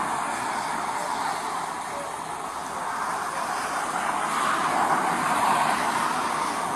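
Road traffic going by: a steady rush of tyres and engines that swells as a vehicle passes about four to five seconds in.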